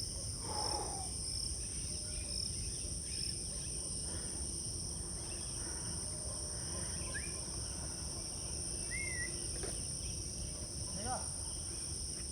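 Steady high-pitched insect chorus, crickets, with a few short chirps over a low rumble of background noise.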